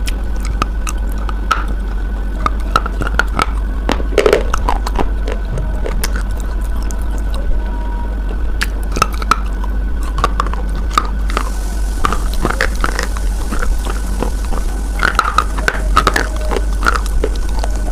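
Crunching and chewing of a chalky white bar: irregular sharp crackles, some in quick clusters, over a steady low hum.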